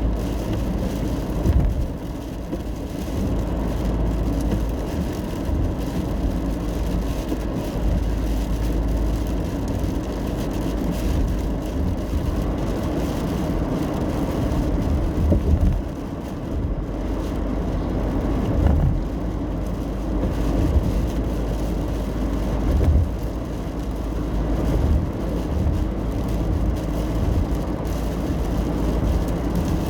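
Steady road noise of a car driving in the rain, heard from inside the cabin: a low rumble of tyres and engine under a haze of rain and spray, with a few brief low thumps from the road.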